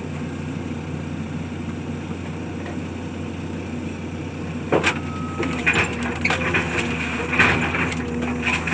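A machine engine running steadily. About five seconds in, sharp cracks and continued crunching of wood begin as a structure is broken apart in demolition.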